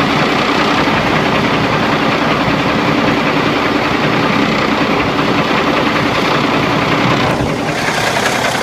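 Cummins ISX inline-six diesel in a Kenworth T660 highway tractor idling steadily and loudly. About seven and a half seconds in the sound briefly dips, then comes through brighter.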